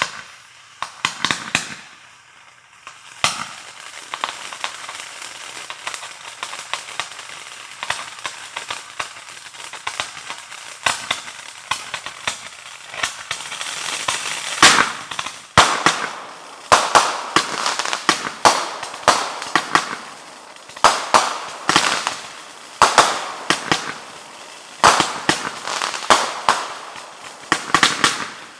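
Fireworks going off in a long run of sharp cracks and crackling reports. They are scattered at first, then build about halfway through into repeated clusters of rapid bangs.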